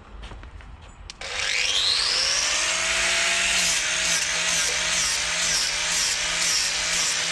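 Small carving chainsaw revved up about a second in, its pitch climbing quickly, then running loud and cutting into wood, the engine note dipping about twice a second as the bar bites.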